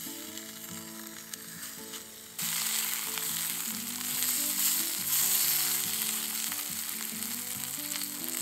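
Sausage patties sizzling in hot fat in a camp frying pan. The sizzle gets suddenly louder about two and a half seconds in.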